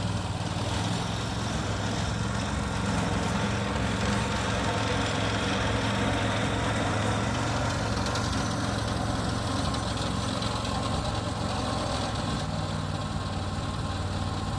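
An engine running steadily at idle with an even hum, and a steady hiss above it.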